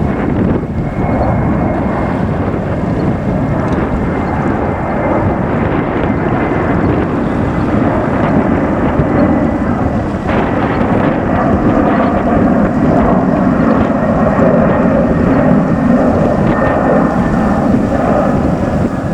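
Airbus A330-300 airliner's jet engines at takeoff power: a steady, loud rumble with a faint high whine slowly falling in pitch.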